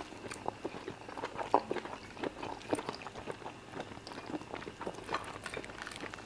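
Close-miked mukbang eating sounds: wet chewing and irregular mouth clicks and smacks as two people eat fufu and chicken in peanut spinach soup with their fingers.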